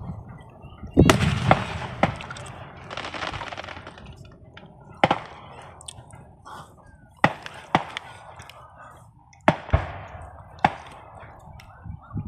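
Fireworks exploding: about eight sharp bangs at irregular intervals over a low rumble, with a noisy hissing stretch a few seconds in.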